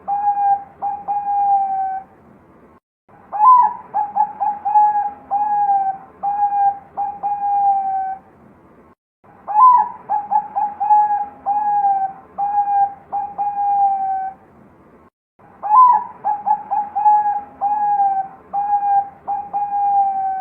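Zebra dove of the Thai 'Bangkok' perkutut song type cooing its song in repeated phrases about every six seconds. Each phrase opens on a higher note, runs into a quick string of short coos, and ends on a few longer drawn-out coos.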